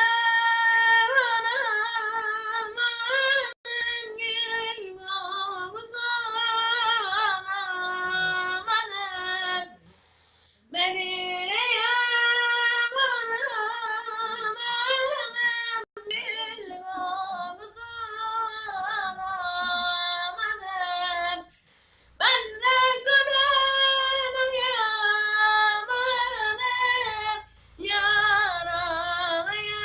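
A child singing a Turkish ilahi (Islamic hymn) unaccompanied, in a high voice with long wavering notes. The song comes in long phrases with short breaths between them, about ten seconds in, about twenty-two seconds in and briefly near the end.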